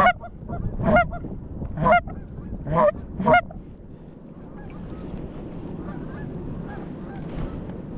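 Goose honking: five loud honks in the first three and a half seconds, then a fainter, continuous chatter of many geese calling.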